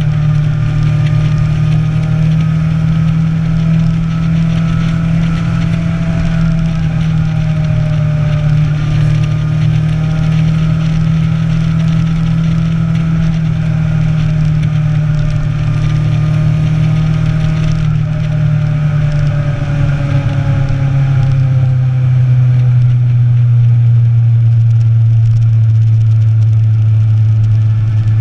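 Motorcycle engine running steadily at cruising speed, heard from on board. About twenty seconds in, its note drops to a lower steady pitch.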